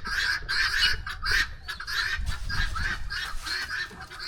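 Geese honking: a rapid, unbroken run of short, harsh honks, about three a second.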